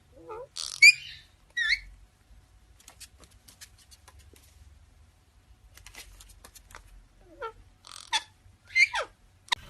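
A parrot making short squeaky squawks and chirps that sweep in pitch: a cluster in the first two seconds and another near the end, with light clicks in between.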